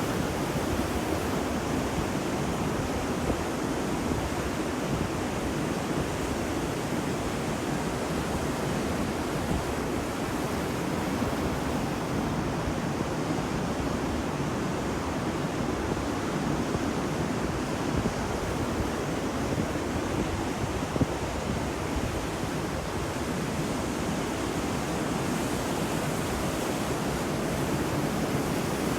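Ocean surf on a beach: a steady, even wash of breaking waves, with no distinct single breakers standing out.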